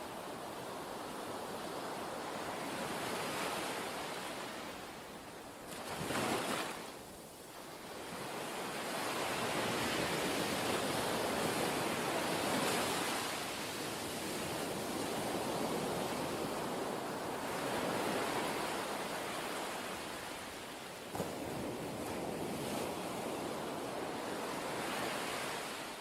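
Steady outdoor rushing noise, like surf, swelling and easing every few seconds, with a brief louder surge about six seconds in and a faint click near the end.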